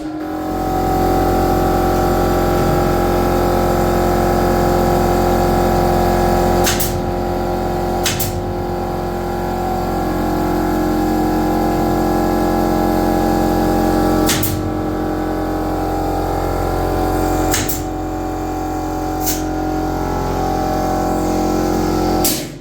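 A power tool's motor running steadily at high speed, with a steady whine, and a few brief dips and clicks where it eases off for a moment before picking up again; it cuts off suddenly at the end.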